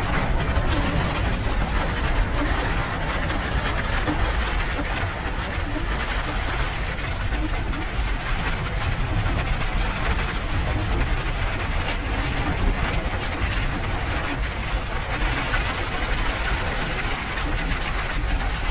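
Steady rain with a constant low rumble underneath.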